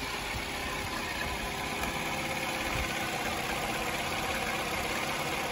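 Vauxhall Tigra 1.4's four-cylinder petrol engine idling steadily, heard close up from the open engine bay.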